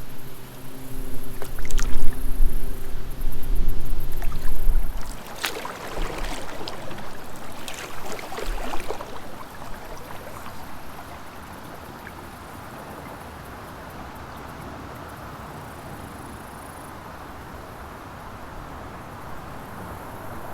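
A loud low rumble for the first few seconds, then kayak paddle strokes splashing in the creek, settling into a steady, quieter rush of flowing water.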